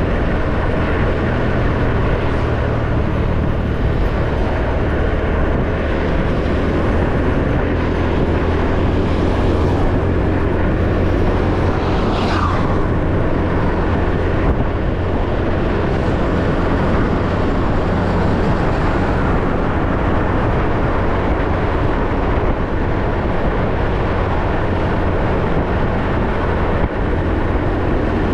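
Motorbike engine running steadily under way, with wind and road noise on the microphone. A brief higher-pitched sound passes about halfway through.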